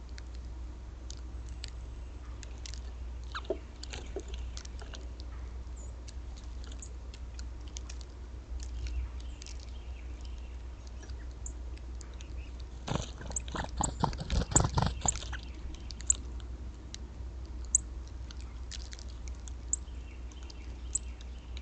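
Scattered small clicks and cracks of northern cardinals handling seed, over a steady low hum. A dense burst of rapid knocks and rustling runs from about 13 to 15 seconds in, the loudest moment.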